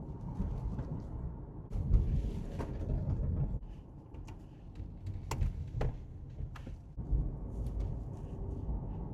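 Road noise inside a moving car: a low, uneven rumble from the tyres and body, with a few sharp clicks or knocks about halfway through.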